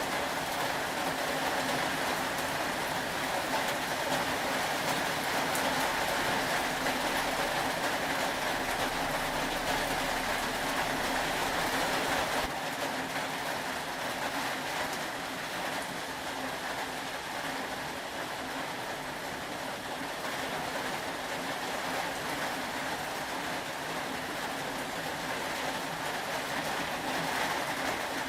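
Steady rain falling, an even hiss that eases slightly about twelve seconds in.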